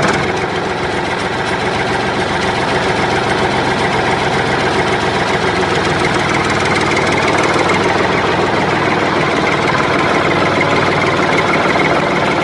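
Tractor engine idling steadily with an even, knocking chug.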